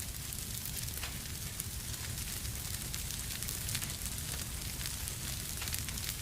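Wood fire burning in a fireplace: a steady crackle of small pops and snaps over a low rumble.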